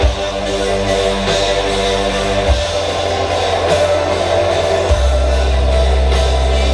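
Live band playing an instrumental passage, with guitar and drums over sustained low bass notes that change about two and a half and five seconds in.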